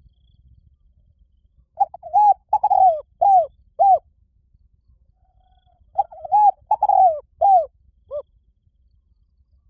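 Spotted dove cooing in two phrases about two seconds apart. Each phrase is a quick run of about five low, arching coos, and the second ends in a short, softer note.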